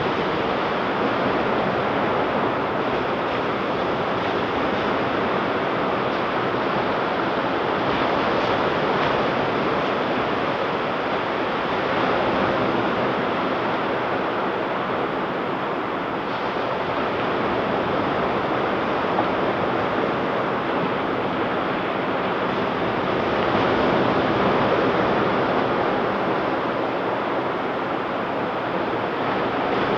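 Ocean surf breaking and washing on a beach as a steady rush of noise that swells and eases gently, with wind buffeting the microphone.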